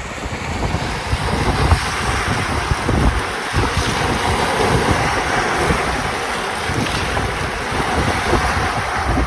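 Caspian Sea waves breaking and washing on the shore, a steady rush that swells for a few seconds about two seconds in. Wind buffets the microphone with a gusty rumble.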